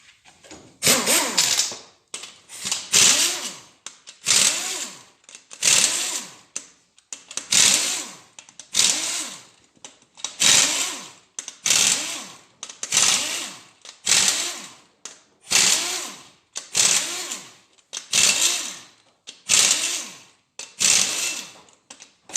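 A power tool, such as a cordless ratchet or impact driver, run in about sixteen short bursts, roughly one every second and a bit, each rising then falling in pitch as it spins out a bolt: the camshaft bearing cap bolts of a G4NA engine being undone one after another.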